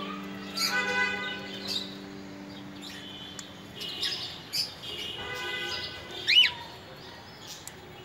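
Bird chirps and calls, with one loud whistle that rises and falls about six seconds in, over background music whose sustained notes fade out in the first few seconds.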